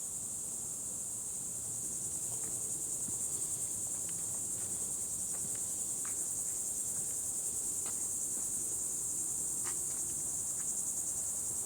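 Steady high-pitched insect chorus, a continuous pulsing trill, with a few faint ticks scattered through it.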